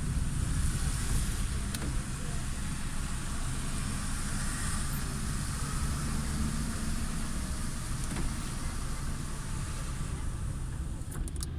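Car driving on a rain-wet road: a steady low engine and road rumble with the hiss of tyres on wet pavement, and a few light clicks near the end.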